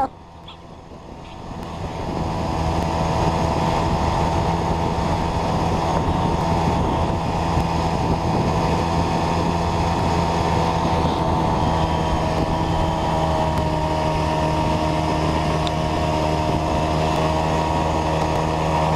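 Small moped scooter engine running under way, with wind and road noise. It grows louder over the first couple of seconds as the scooter picks up, then holds a steady drone.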